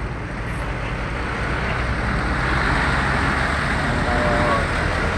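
Heavy loaded trucks driving past on the road, a steady engine and road-noise rumble that grows a little louder about two seconds in.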